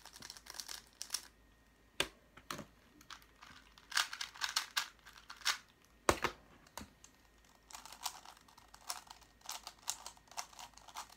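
Plastic Rubik's-type puzzle cubes being scrambled by hand: irregular bursts of quick clicking and clacking as the layers are turned, with one heavier knock about six seconds in.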